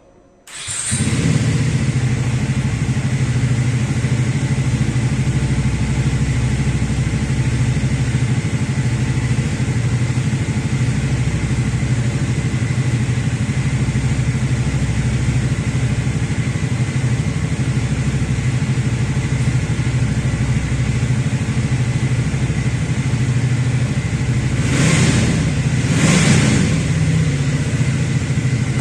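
Triumph Thruxton 400's single-cylinder engine starting up about half a second in and then idling steadily through its exhaust, with two short throttle blips near the end.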